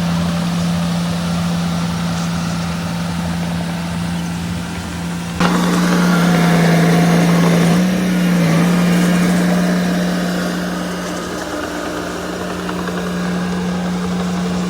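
Heavy construction machine's diesel engine running steadily with a constant low hum. About five seconds in the sound steps up suddenly to a louder, noisier run, then eases off toward the end.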